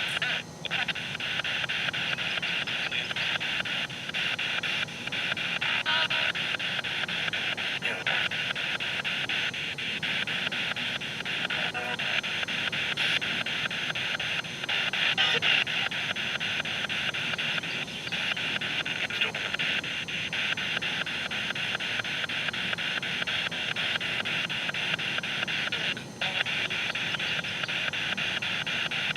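Spirit box sweeping through radio frequencies: a steady hiss of radio static with fine rapid chatter from the sweep, briefly dropping out about 26 seconds in.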